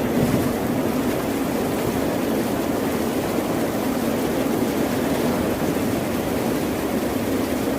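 Ocean waves and surf: a steady, even wash of water noise with no distinct breaking wave standing out.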